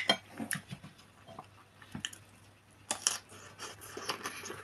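Close-miked eating sounds: a spoon clicks on the plate at the start, then wet chewing and mouth clicks over a soft mouthful of potato-carrot mash and cutlet. The chewing turns denser about three seconds in.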